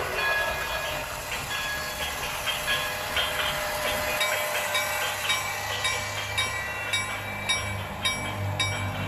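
Train running, with an even clicking about twice a second from about halfway through and a low hum joining near the end.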